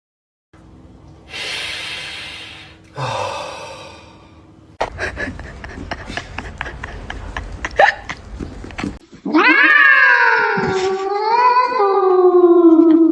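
A domestic cat giving one long, wavering meow over the last four seconds, the loudest sound here. Before it come two short hissing rushes of noise and a stretch of clicks and rustling.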